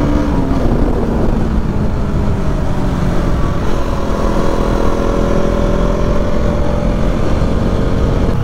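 KTM motorcycle engine heard from the handlebars while riding: its note drops over the first few seconds, then climbs steadily again as the bike accelerates, over constant wind and road noise.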